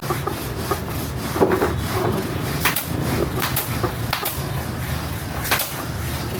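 A few short, sharp clicks and knocks, scattered and uneven, over a steady low hum.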